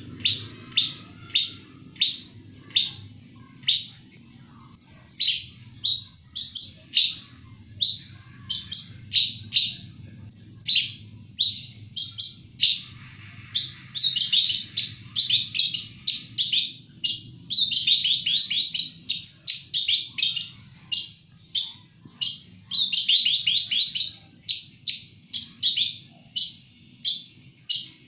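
Long-tailed shrike (cendet) singing: a run of short, sharp, high calls about one to two a second, broken several times by fast chattering phrases.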